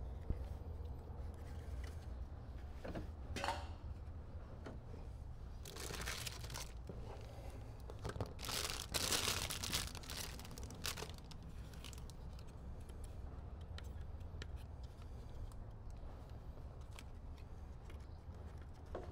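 Handling noises from work on a car door: a few short rustling, scraping bursts, the longest about eight to eleven seconds in, over a low steady rumble.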